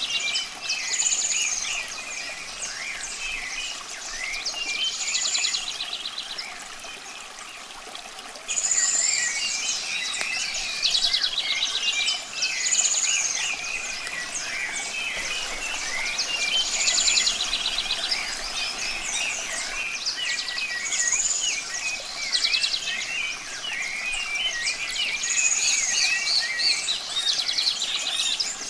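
Many birds chirping and singing together, with a trilled phrase recurring every couple of seconds, over a steady hiss of running water. The birds drop back briefly about a third of the way through.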